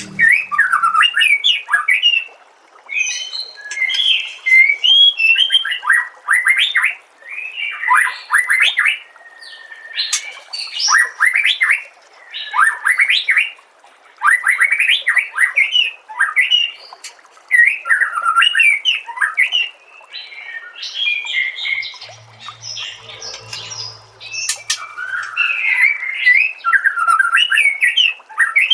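White-rumped shama (murai batu) singing loud, varied phrases of whistles and chatter, each a second or two long, with short pauses between them.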